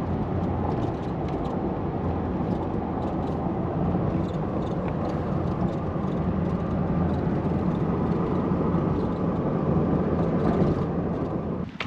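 Steady road and engine noise inside a car driving at highway speed, cutting off suddenly near the end.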